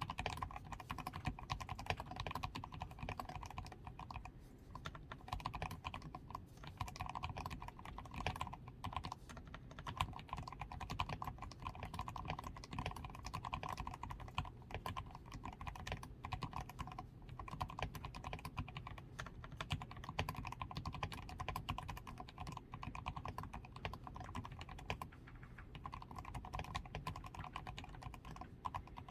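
Continuous typing on a DAREU A87 Pro mechanical keyboard, fully lubed with Krytox 105, PCB tape-modded, with switch foam, XDA keycaps and lubed stabilizers: a steady, rapid stream of keystrokes.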